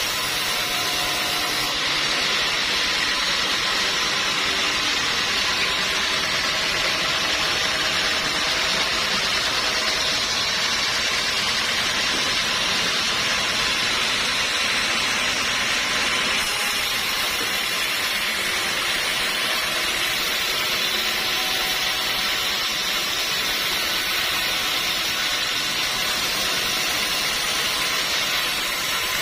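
Sawmill machinery running steadily, a continuous high hissing noise with no pauses, as when teak logs are being sawn.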